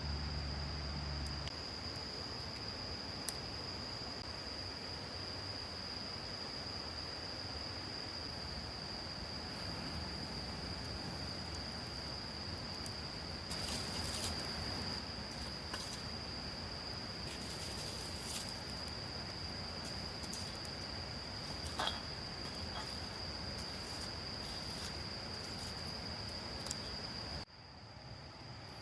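Insects trilling in one steady, unbroken high tone, with a few scattered faint clicks.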